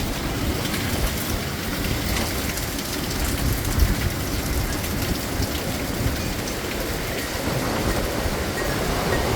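Heavy wind-driven rain hissing steadily, with gusting storm wind rumbling underneath and one brief louder gust about four seconds in.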